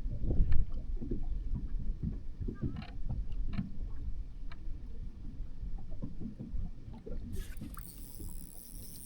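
Irregular low knocks, bumps and sloshing around a small boat on the water. About seven seconds in, a steady high buzz comes in on top.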